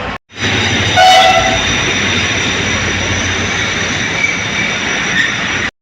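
Train running in alongside the platform: a short blast of the locomotive's horn about a second in, over the steady rumble of the moving train.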